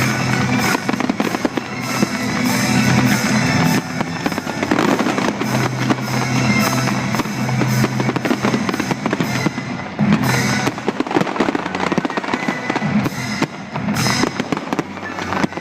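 Fireworks bursting in quick succession with crackling, over music with held low notes.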